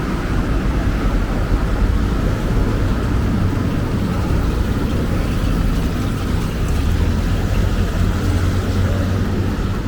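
Steady, loud low rumble of city street traffic, with a constant higher hum running through it.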